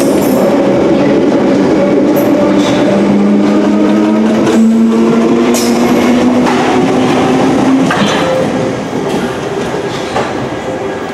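London Underground 1972 Stock tube train pulling away, its motors whining in a tone that rises slowly, with the wheels knocking over rail joints. The sound fades over the last few seconds as the train draws away.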